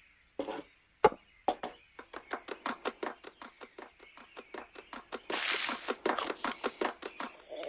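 Cartoon sound effect of a model train running: a fast, even clickety-clack of wheels on track, about six clacks a second, after two single knocks near the start. A hiss lasting about a second comes a little after five seconds in.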